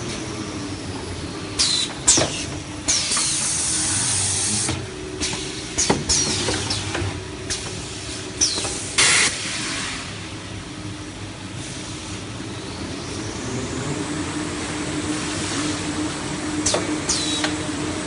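Band saw log-cutting machine for toilet paper running with a steady hum, interrupted by repeated short, sharp cutting strokes, several with a quick high falling screech, and bursts of hissing. The strokes come thick in the first half, pause for several seconds, and return near the end.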